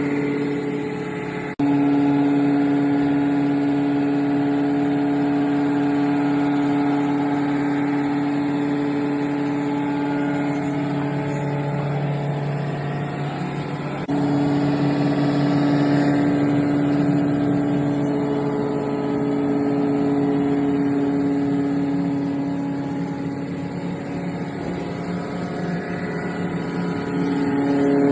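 Surface grinding machine running steadily while resurfacing a Leyland BS4 engine block, a continuous even machine hum with a strong fixed pitch. The sound jumps abruptly twice, about a second and a half in and again near the middle.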